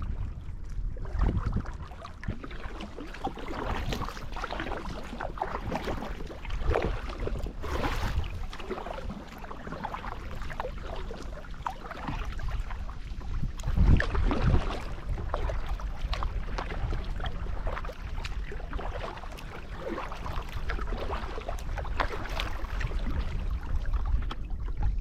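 Kayak paddle dipping and splashing in the water in uneven strokes, with wind rumbling on the microphone.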